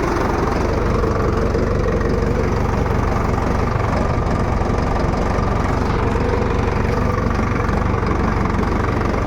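Solis Yanmar tractor's diesel engine running steadily at low revs while pulling a plough.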